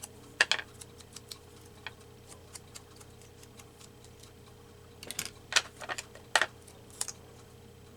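Light clicks and taps of hands working paper collage pieces on a table: one sharp tick about half a second in, a few faint ticks, then a cluster of clicks between about five and seven seconds in, over a faint steady hum.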